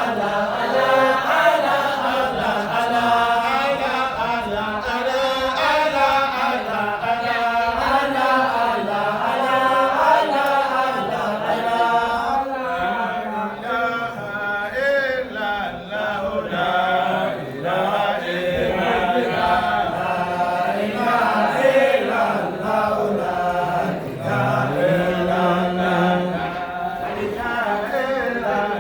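A group of voices chanting a religious praise chant (dhikr) together, continuous and melodic with a wavering line.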